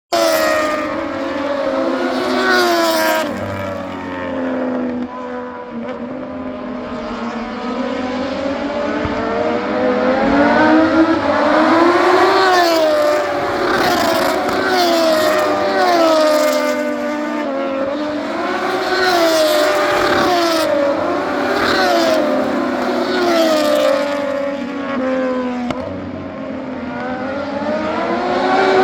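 Several Moto2 racing motorcycles' Triumph 765 cc three-cylinder engines at high revs, overlapping, their pitch climbing and falling again and again as the bikes accelerate, shift and pass.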